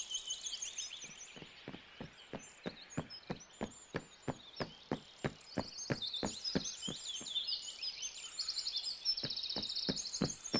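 Cartoon footstep sound effects: even, sharp taps about three a second, over a background of birds chirping.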